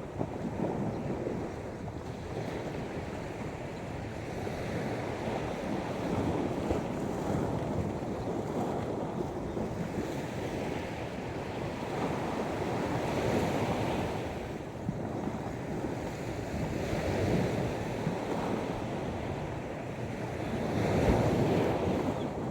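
Sea waves washing up on the shore, swelling every several seconds with the biggest surge near the end, with wind blowing across the microphone.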